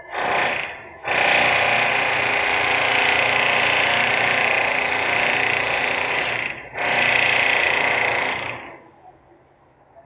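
Loud industrial machine noise in three bursts, like a power tool running: a short one at the start, then one of about five seconds, then one of about two seconds that cuts off near the end.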